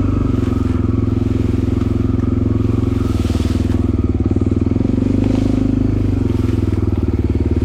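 Suzuki DR-Z250 dirt bike's single-cylinder four-stroke engine running at steady revs while the bike is ridden slowly along a swampy trail.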